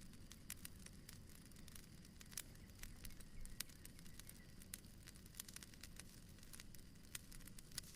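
Soft fireplace crackle: irregular small pops and snaps from a wood fire over a low steady rumble.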